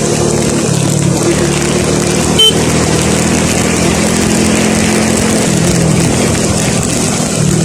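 Vehicle driving along a road: steady engine and road noise, with one short sharp click about two and a half seconds in.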